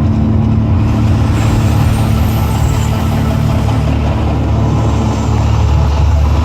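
A loud, steady deep rumble.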